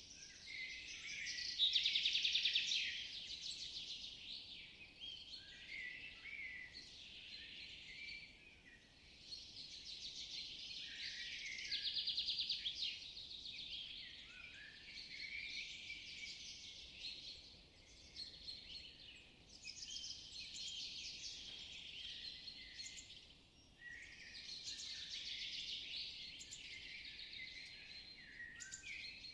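Birdsong: phrases of a few seconds each, with short gaps between them, some holding a fast trill.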